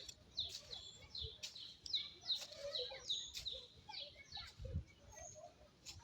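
A bird calling: a quick run of short, high chirps, each sliding downward, about three a second, stopping after about three and a half seconds. A low thump comes near the end.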